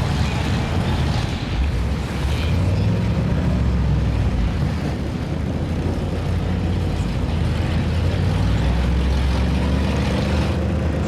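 A large vehicle engine running loud and steady, its pitch shifting a little now and then.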